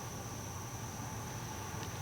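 Night ambience: an insect trilling on one steady high pitch, with a low steady rumble underneath and no distinct calls.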